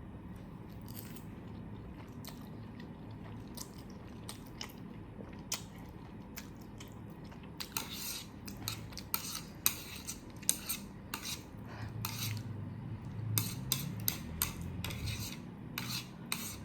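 Eating utensils clicking and clinking against a dish, a few scattered clicks at first and then a quick run of them from about halfway through.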